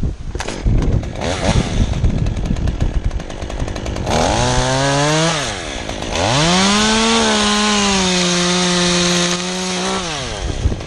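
Stihl chainsaw idling roughly amid wind noise, then blipped briefly about four seconds in. About six seconds in it is opened up to full throttle and held at a steady high pitch for about four seconds while making a cut in a tree limb, then drops back to idle near the end.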